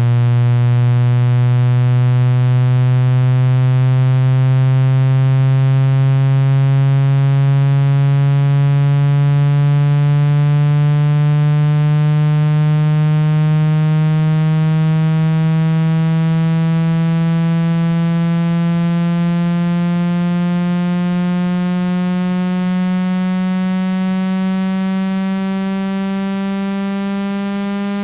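Electronic speaker-cleaning test tone: a loud, buzzy low tone that glides slowly and steadily upward in pitch, passing through about 165 Hz, played to vibrate water and dust out of a phone speaker.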